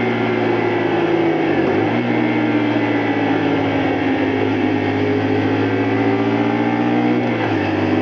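Honda Varadero 125's V-twin engine running under way. Its revs slide slowly down, and twice (about two seconds in and near the end) they dip briefly and come back higher.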